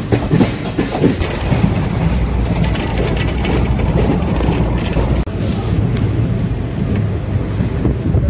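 Moving passenger train heard from a coach doorway: a steady rumble and rattle of the wheels on the rails, with a brief dropout about five seconds in.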